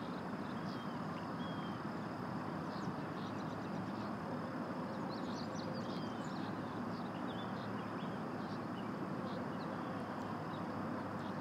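Birds giving short chirps and calls over a steady outdoor background noise, with the calls busiest about five to six seconds in.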